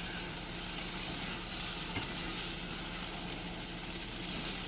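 An egg omelette sizzling in butter in a hot skillet: a steady frying hiss with a few faint ticks.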